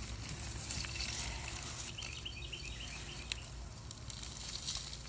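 Soil being dug through by hand in a potato bed, a light scratching and rustling with scattered small clicks. A short run of faint chirps comes about two seconds in, over a steady low rumble.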